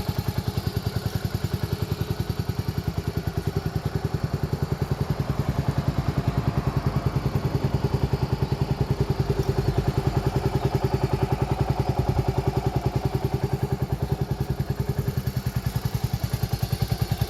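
Suzuki Skywave 250 scooter's single-cylinder engine idling with an even, rhythmic putter.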